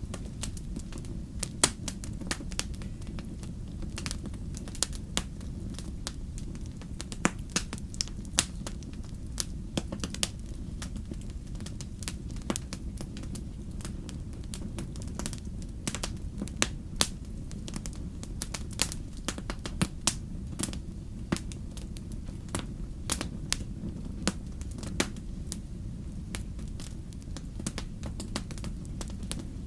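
Wood fire in a fireplace crackling: a steady low rumble of the flames with frequent irregular sharp pops and snaps, a few of them much louder.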